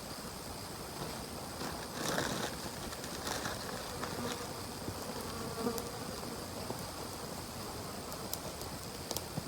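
Forest ambience of insects buzzing, with a brief rustle about two seconds in and a few faint clicks.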